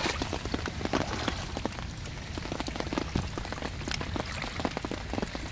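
Heavy rain falling on the water surface and the rocks at the shore: a steady hiss with a dense patter of separate drop strikes.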